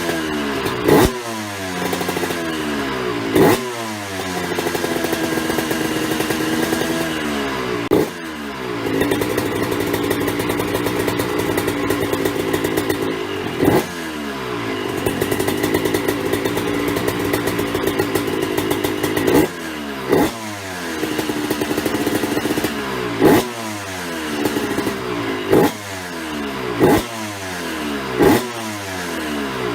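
Suzuki RM125's 125 cc single-cylinder two-stroke engine through an aftermarket exhaust, running continuously with the revs rising and falling and about a dozen sharp, loud throttle bursts, each followed by the revs dropping back.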